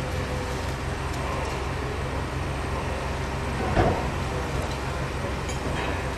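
Roofing work overhead: a steady mechanical drone with a low pulsing hum, and one louder brief sound nearly four seconds in.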